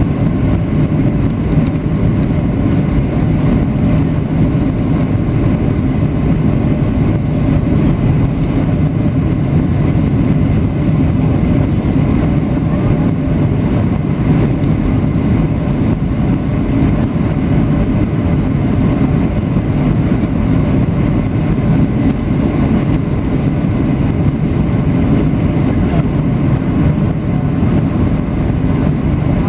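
Steady drone of a Boeing 737-700's CFM56 jet engines and the rush of air past the fuselage, heard inside the passenger cabin in flight.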